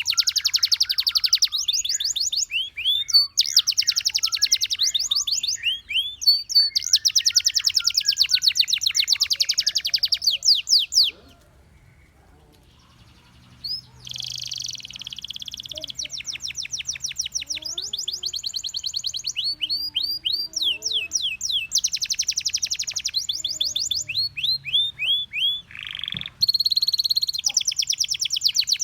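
Gloster canary singing: phrases of fast trills of repeated high notes and down-slurred whistles, with a pause of about three seconds near the middle.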